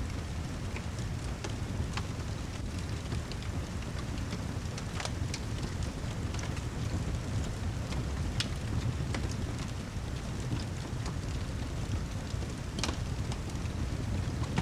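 Steady heavy rain with a low, even rumble underneath and scattered sharp clicks throughout.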